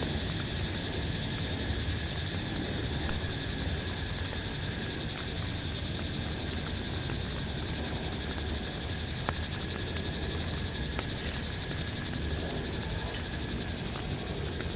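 Steady rain falling, with a few faint, sharp drip taps scattered through it.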